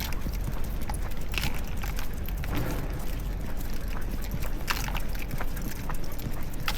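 Footsteps of a dog walk on pavement, with scattered sharp clicks over a steady low rumble of street noise.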